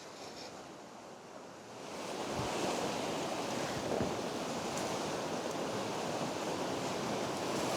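Ocean surf washing steadily, swelling up about two seconds in and then holding.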